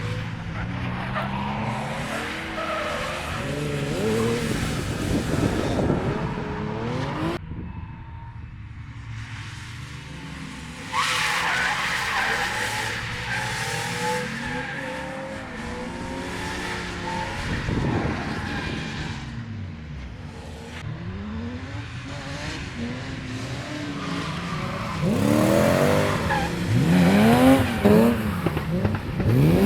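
Drift cars on track: engines revving hard, pitch sweeping up and down again and again, over tyres squealing and skidding. The sound changes abruptly twice, about seven and eleven seconds in, and the revving is loudest and fastest near the end.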